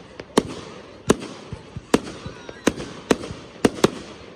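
Consumer fireworks going off: about seven sharp bangs at irregular intervals of half a second to a second, with a steady hiss between them.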